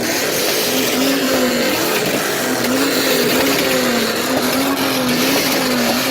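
Car engine held at high revs, its pitch wavering up and down, with a dense hiss of noise over it.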